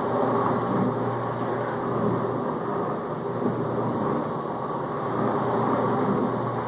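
Whirlpool dishwasher circulating water in its final rinse, with rinse aid dispensed: the pump runs steadily with a low hum under the splash of spraying water.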